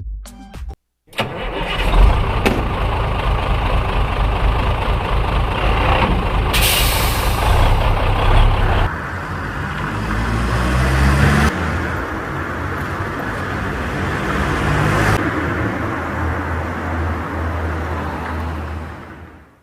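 Car engine running with road noise while driving; the engine note rises about ten seconds in, then drops off abruptly.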